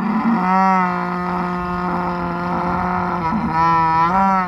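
A cow mooing: one long, loud moo held at a steady pitch.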